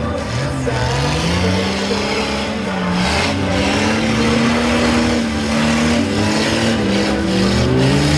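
Several demolition derby car engines revving, their pitch rising and falling repeatedly and overlapping one another.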